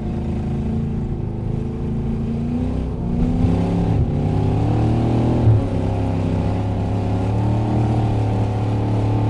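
Race car engine heard from inside the cabin, its pitch climbing about three seconds in as it accelerates and then holding steady and louder, with a brief knock about halfway through.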